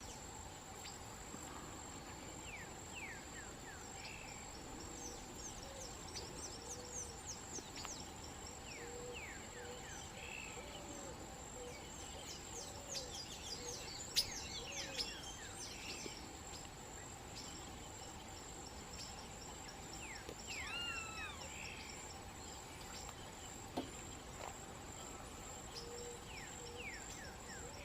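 Birds calling over a steady high insect drone: bursts of short, quick, falling high chirps, one clear arching call about two-thirds of the way in, and soft low notes. Two sharp clicks stand out, the louder one near the middle.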